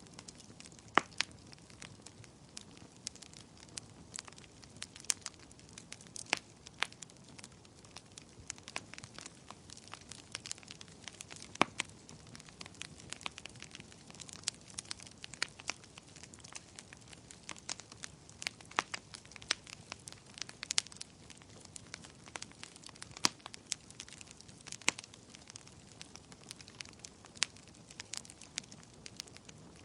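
Wood fire crackling: irregular sharp pops and snaps, several a second, over a soft low hiss of burning.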